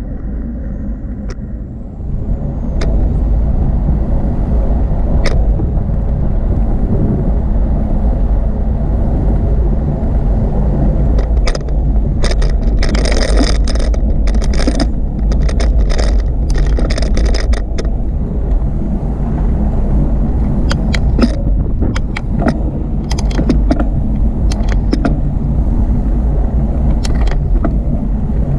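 Riding noise from a bicycle on a paved cycleway: a steady low rumble of wind and tyres that gets louder about two seconds in, with rattling clicks and a run of short hissing bursts in the middle.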